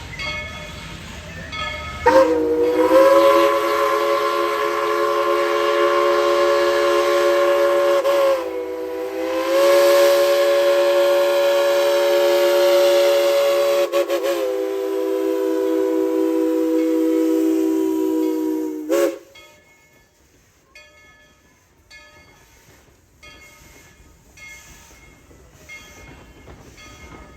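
Steam chime whistle of Tweetsie Railroad's #190, a narrow-gauge steam locomotive, blowing one long blast of several notes at once. The pitch sags briefly about a third of the way through, then comes back up. The blast cuts off sharply near the end.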